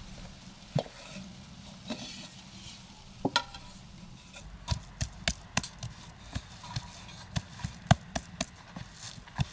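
Kitchen utensils knocking during food preparation: a run of short, sharp, irregular taps, sparse at first, then about two a second in the second half.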